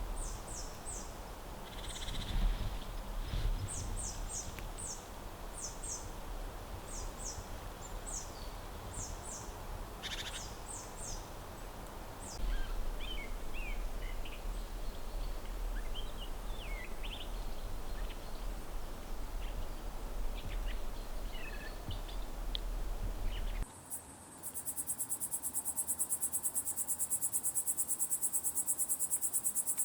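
Forest ambience: a low rumble of wind with scattered high bird calls, short repeated notes and chirps. Late on it cuts off suddenly to a steady, fast-pulsing high chirring of crickets.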